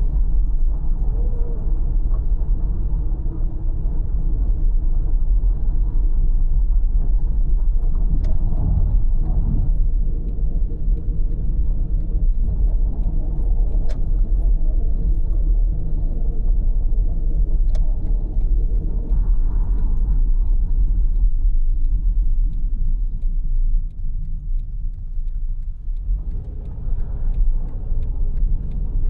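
Steady low rumble of a car's engine and tyres heard from inside the cabin while driving, with a few faint clicks or rattles now and then and a slightly quieter stretch a little over three quarters of the way through.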